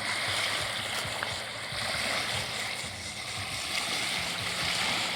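Water rushing and washing along the shore, swelling and easing, with a faint low hum underneath.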